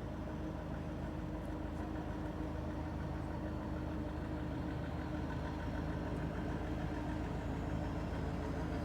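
An engine idling steadily, a constant hum that holds one pitch throughout.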